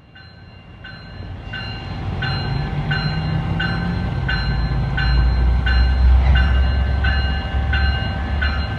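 Passenger train approaching, its rumble and the low drone of its trailing diesel locomotive growing louder over the first few seconds. A bell rings steadily throughout, about three rings every two seconds.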